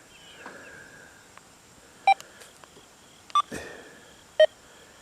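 Three short electronic beeps from an XP Deus 2 metal detector, each at a different pitch, roughly a second apart. There is a brief rustle of handling just after the second beep.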